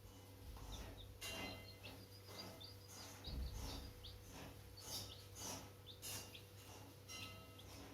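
Chicks peeping in many short, high chirps, mixed with scratchy rustling and a dull bump a little past three seconds in, over a steady low hum.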